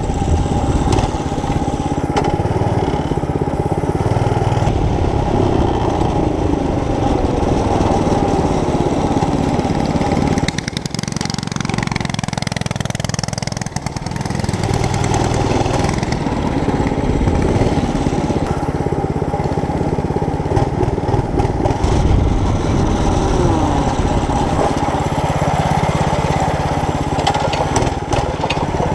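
Small mini bike engine running and revving up and down. Its sound drops away for a few seconds a little after ten seconds in, then picks up again.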